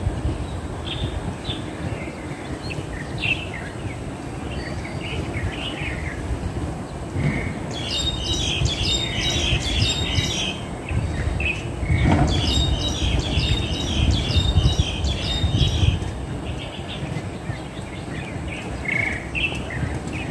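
Wild birds calling: scattered short chirps, with two stretches of dense, rapid chattering around the middle, over a steady low rumble of background noise.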